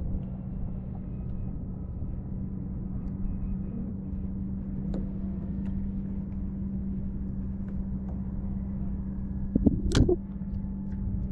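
Steady low mechanical hum, like an engine or motor running, with a sharp knock a little under ten seconds in.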